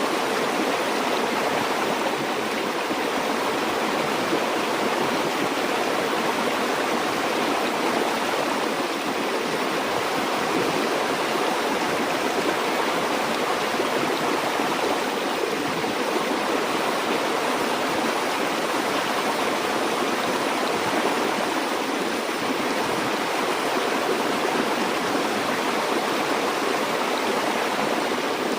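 Stream or small river flowing, a steady rushing of water with no breaks or changes.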